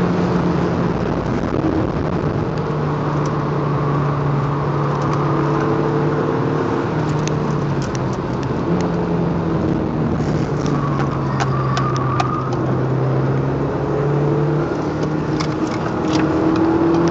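Audi TT 1.8 Quattro's turbocharged four-cylinder engine running under load, heard from inside the cabin, its pitch dropping and climbing several times as the car slows and speeds up through the bends and rising again near the end. Tyre and road noise run underneath, with scattered light clicks and rattles.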